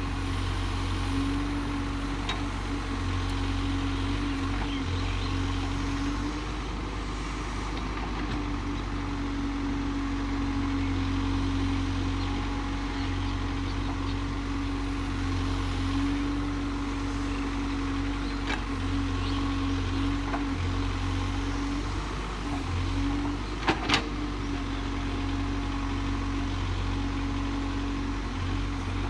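Case backhoe loader's diesel engine running steadily, with two sharp knocks in quick succession late on.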